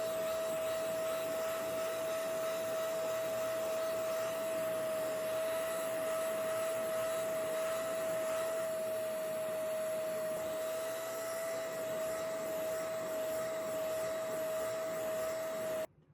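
Hoover Clean Slate portable spot carpet cleaner running with a steady whine over a hiss, switching off suddenly near the end.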